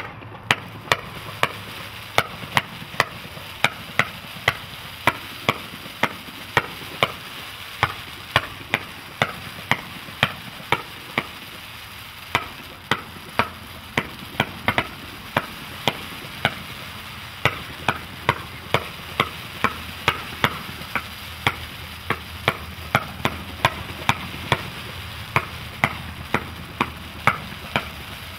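A 500-gram consumer fireworks cake firing its shots in a steady rapid sequence, a sharp report about every half second, over continuous crackling from the red crackling mines and stars.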